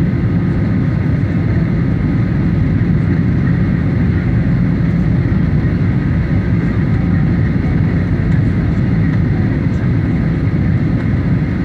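Steady low rumble of a Boeing 737's engines and airflow heard inside the passenger cabin, unchanging throughout.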